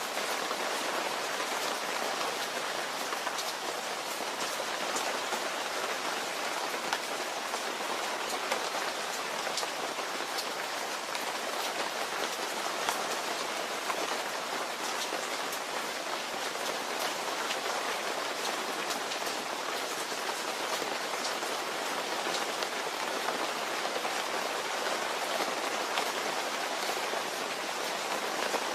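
Steady rain falling without a break, with many sharp ticks of single drops scattered through it.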